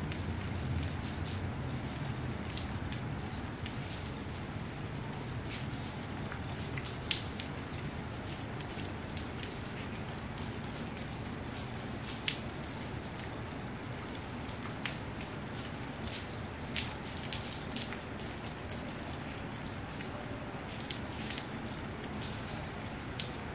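Light rain falling: a steady hiss with scattered drops ticking sharply close to the microphone. A low rumble fades out within the first two seconds.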